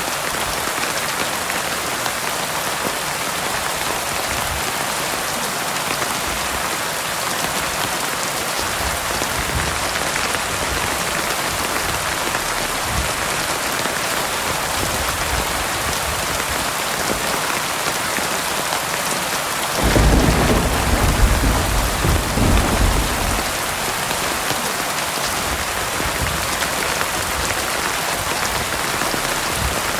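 Heavy rain falling steadily on surfaces, with a low rumble of thunder breaking in suddenly about two-thirds of the way through and rolling for about three seconds.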